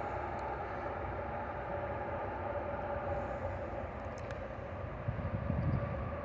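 Steady drone of distant highway traffic, with a few faint rustles near the end.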